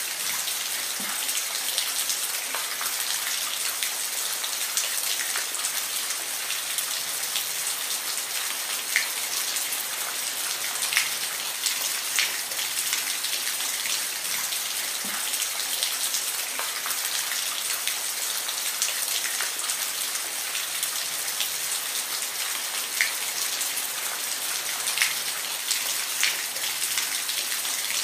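Steady rain, a dense even hiss with individual drops ticking sharply here and there.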